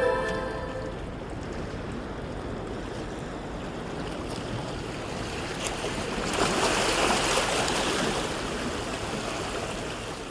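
Sea water washing and rushing, swelling louder about six seconds in and easing off near the end. The last notes of music die away in the first second.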